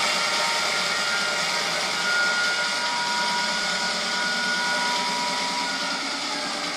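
Motorcycle on the move: engine running under steady wind rush on the microphone, with a thin steady whine in the middle and the engine note rising slowly near the end.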